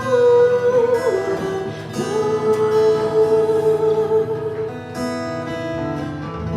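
Live acoustic guitar strummed chords with long held notes ringing over them, the closing bars of a song. The playing thins out about five seconds in.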